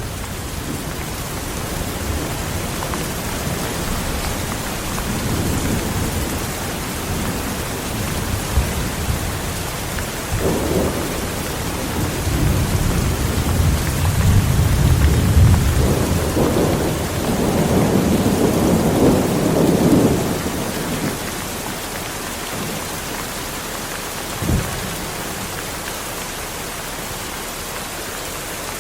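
Heavy rain falling steadily, with rolling thunder rumbling low that swells and fades through the middle. A short sharp thump comes about three-quarters of the way through.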